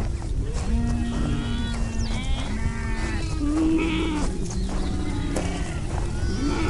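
A flock of livestock bleating: many overlapping calls, some long and held, some wavering, cutting off abruptly at the end.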